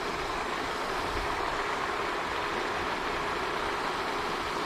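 Steady rushing and splashing of the pond's water fountain, an even noise without breaks.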